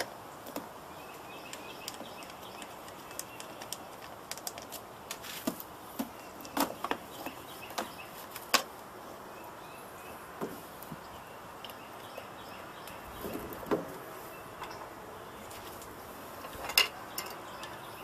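Hands taking apart a desktop computer case: scattered sharp clicks and taps at irregular intervals, the loudest about halfway through and again near the end, over a steady background hiss with faint bird chirps.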